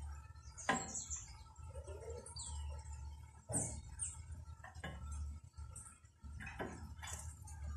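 Birds calling: several short, sharp chips and high chirps, one of them falling in pitch, over a low steady hum.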